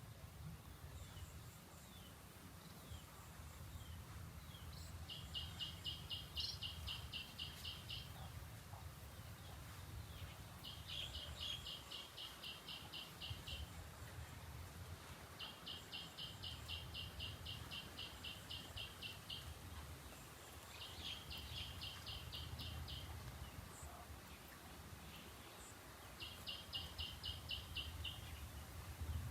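An animal's rapid pulsed trill, high-pitched and repeated in five bouts of a few seconds each, over a steady low rumble of outdoor ambience.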